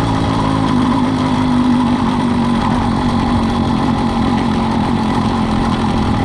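80cc two-stroke bicycle engine of a motorized chopper bicycle running steadily. Its pitch rises slightly about a second in and then holds.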